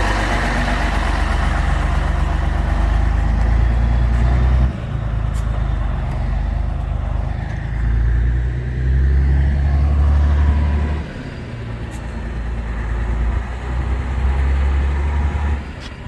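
Scania 113 M 310 truck's six-cylinder diesel engine running with a deep low rumble. Its level swells and drops several times, falling away about five seconds in, rising again around eight seconds, dropping near eleven and rising once more before a final drop.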